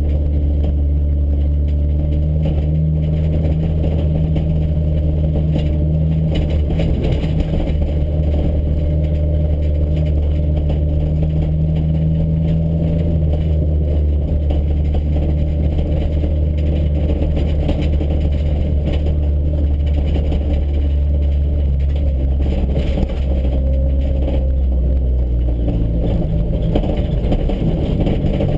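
Car engine running at low, steady revs, heard from inside the cabin while driving slowly over dirt, with light rattle and road noise. The engine's pitch shifts a little late on.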